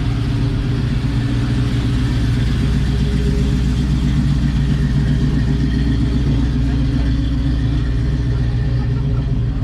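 A classic car's engine running steadily with a low-pitched sound, as it pulls out of a car show.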